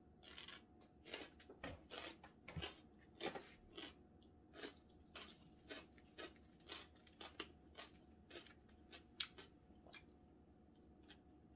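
Chewing of spicy cold buckwheat noodles, then a dumpling: a steady run of short, crunchy mouth sounds about two a second, thinning out near the end.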